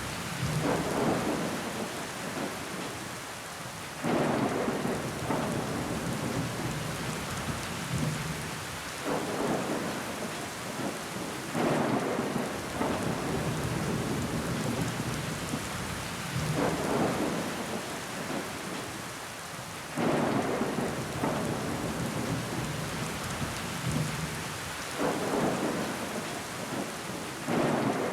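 Rain falling steadily on window glass, a continuous patter that swells in bursts every few seconds, some of them coming on suddenly.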